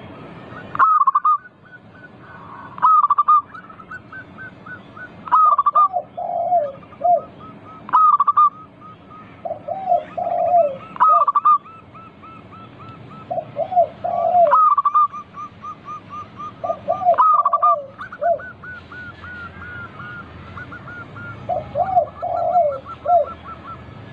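Zebra doves (perkutut) cooing over and over. A sharp high note comes every two to three seconds, with groups of lower rolling coos between, over a faint steady twitter.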